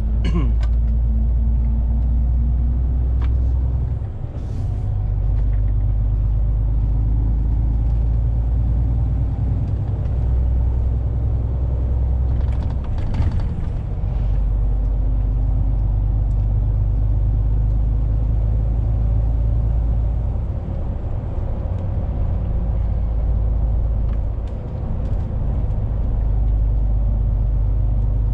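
Heavy truck's diesel engine and road rumble heard from inside the cab while driving. The low rumble is steady but drops away briefly about four times.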